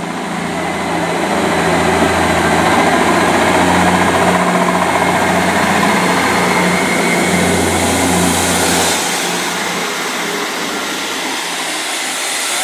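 Class 158 diesel multiple unit pulling away under power, its diesel engine running with a steady drone that swells over the first few seconds, then drops off about nine seconds in as the train draws away.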